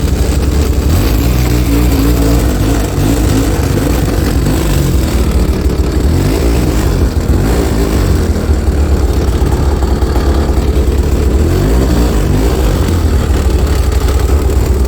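Snowmobile engine running under load while breaking trail through fresh deep snow.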